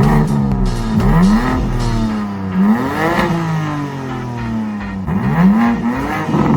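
BMW M3 Competition's S58 twin-turbo straight-six revving hard and easing off while driving. Three times the engine note climbs quickly, then falls away more slowly.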